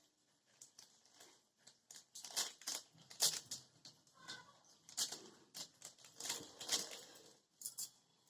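Kitchen handling noises while cooking sabji: irregular scraping and rustling bursts mixed with sharp clicks, as the pan's contents are stirred and spice is added.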